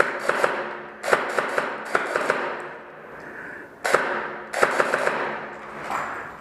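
Airsoft guns firing in several quick strings of shots, with short gaps between strings and a single sharp crack about four seconds in.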